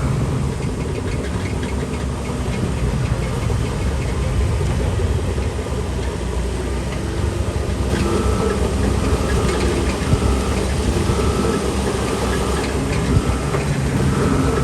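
Heavy diesel engine of a Shantui DH17C3 Pro bulldozer running steadily at work, with a few short metallic clanks.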